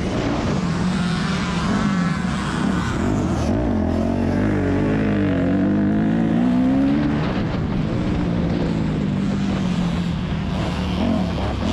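2001 Yamaha YZ250F's four-stroke single-cylinder engine at race pace, revving up and backing off several times as it is worked through the gears.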